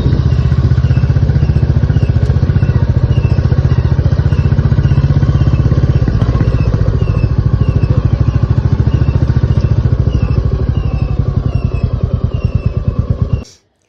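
Royal Enfield Classic 350's single-cylinder engine running with a fast, even pulse while the bike is ridden. A short, high squeak repeats about every half second over it: the chain/brake noise the owner has been chasing, which a service centre put down to chain timing and which is still not cured. The sound cuts off sharply near the end.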